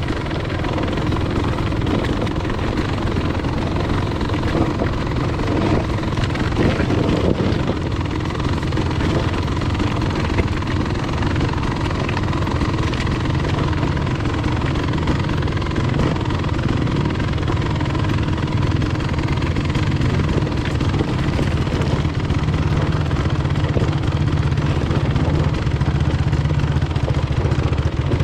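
Enduro motorcycle engine running continuously, its note settling into a steadier, even drone from about halfway through.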